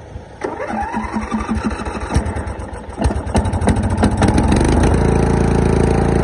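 Murray 14.5 horsepower riding mower engine cranking over unevenly, catching about three seconds in and settling into steady running by about five seconds.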